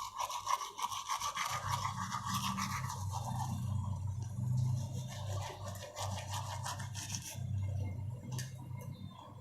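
Teeth being brushed with a toothbrush in quick back-and-forth scrubbing strokes that thin out after a few seconds. A low steady hum comes in underneath about a second and a half in.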